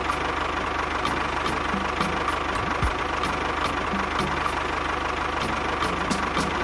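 A small motor running steadily, with a regular clicking about two or three times a second.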